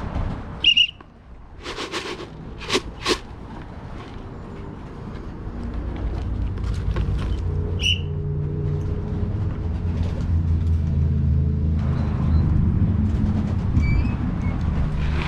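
A low, steady engine or motor hum that grows louder over the first several seconds. Early on come two sharp knocks, and there are a couple of short, high chirps.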